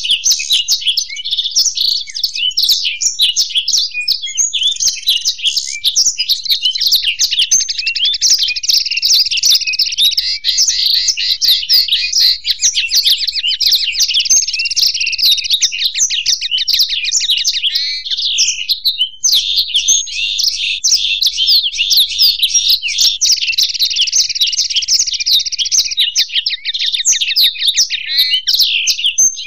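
Caged blackthroat (black-throated canary) and goldfinch singing together in a continuous stream of fast, high trills and twittering warbles, with only a brief break about two-thirds of the way through.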